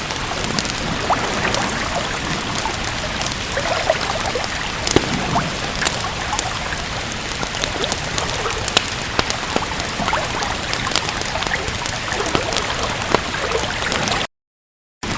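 Steady rain with scattered sharp crackles from a wood fire in a fireplace. The sound cuts out completely for under a second near the end.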